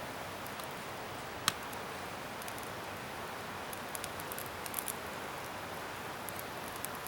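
Garden bonfire of scrap wood burning with a steady hiss, and sharp crackles and pops from the wood: one loud pop about a second and a half in, and a cluster of crackles around four to five seconds.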